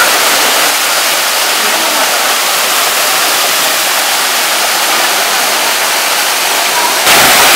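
Waterfall rushing: a steady, loud roar of falling water, which grows louder about seven seconds in.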